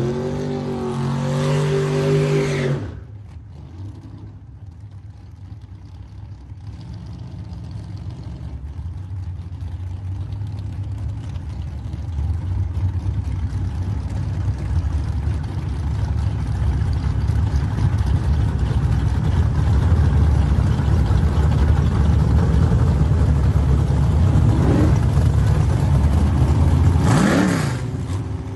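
Car engine revving with a rising pitch for the first few seconds, which stops abruptly; then a low engine rumble that grows steadily louder, with another rising rev near the end.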